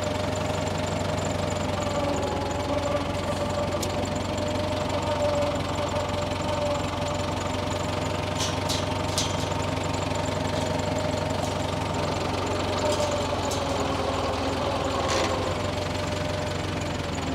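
Tractor engine running steadily, with a steady whine held through it. A few short clicks come about halfway through, and another near the end.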